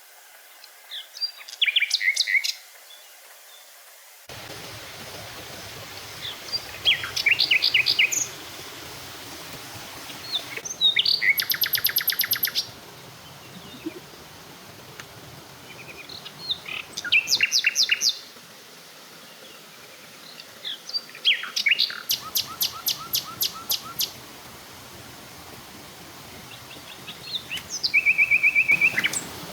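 Forest birds calling and singing in short bouts every few seconds over a steady background hiss. Some calls are quick trills of rapidly repeated notes. Near the end comes one held whistled note.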